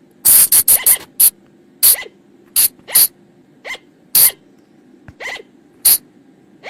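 Colugo (flying lemur) calls: short, sharp shrieks in an irregular series, a quick cluster of about six in the first second, then single calls every half second to a second.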